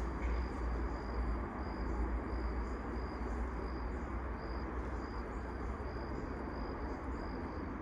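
Insects chirping: a high, steady chirp pulsing about twice a second, over a low steady rumble.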